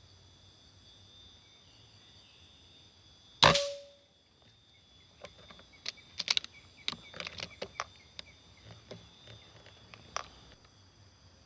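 A single air-rifle shot, sharp and loud, about a third of the way in, followed over the next several seconds by a scatter of crackles and rustles in the foliage. Insects chirr steadily underneath.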